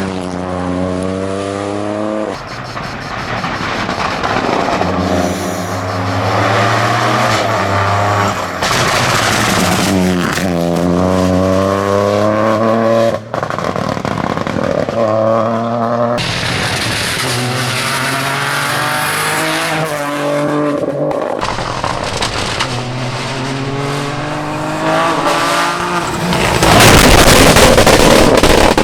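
Rally car engine revving hard, its pitch climbing under acceleration and dropping at each gear change, with abrupt breaks between passes. A loud rushing noise comes near the end.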